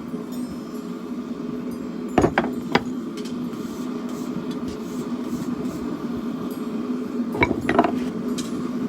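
A steady hum under a few light metallic clinks and taps from forge work: three about two seconds in, and two more near the end.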